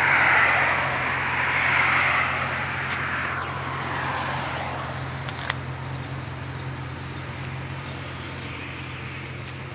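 A road vehicle going by, its noise swelling over the first couple of seconds and then fading away, over a steady low hum.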